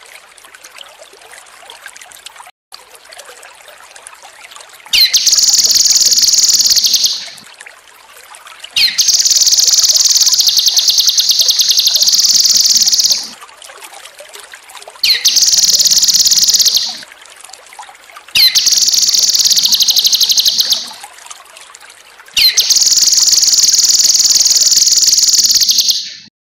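Cucak kinoi songbird singing in five long, loud bouts of rapid, high-pitched trilling, with trickling water heard faintly in the first few seconds and in the gaps between bouts.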